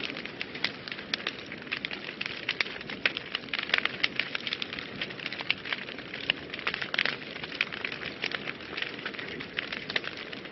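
Wood fire burning in a fireplace, crackling with many sharp, irregular pops and snaps over a steady hiss.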